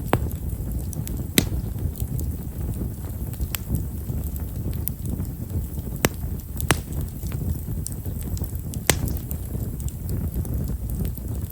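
Campfire of himeshara (Stewartia monadelpha) firewood crackling with small, fine pops scattered at uneven intervals, a few sharper snaps standing out, over a low steady rush.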